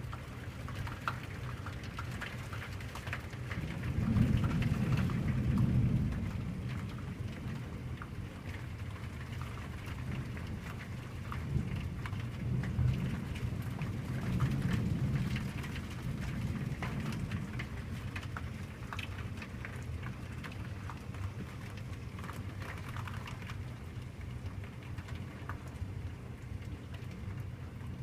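Heavy rain falling steadily with drops pattering, and rolling thunder: a loud low rumble about four seconds in and a longer, weaker roll of thunder around twelve to sixteen seconds in.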